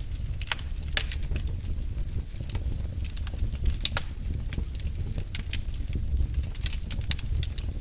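Wood fire burning in a fireplace: frequent irregular crackles and pops, a few sharper than the rest, over a steady low rumble.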